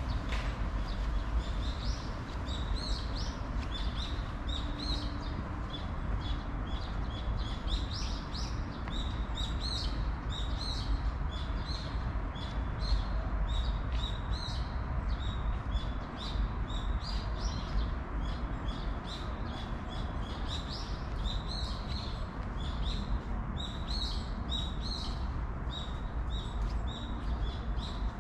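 Small birds chirping, many short high chirps repeating quickly and continuously, over a steady low background rumble.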